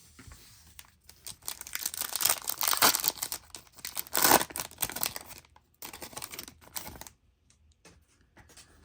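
A trading-card pack wrapper being torn open and crinkled: a run of rasping tears and crinkles over several seconds, then a few faint ticks near the end.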